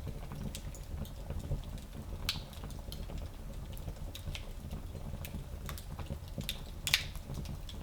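Wood fire crackling in a small fireplace: a steady low rumble of the flames with scattered sharp pops and snaps, the loudest pop about seven seconds in.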